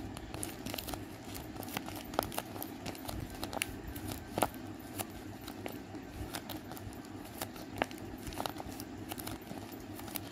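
Hand-made paper squishy, shiny with tape, being squeezed and kneaded between the thumbs. It gives irregular crinkling and crackling over a steady low background hum.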